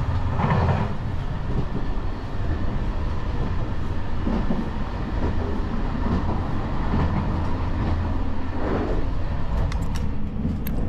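Interior running noise of a JR Shikoku 8600 series electric train: a steady low rumble with a haze of wheel and rail noise, heard inside the car's vestibule, with a few sharp clicks near the end.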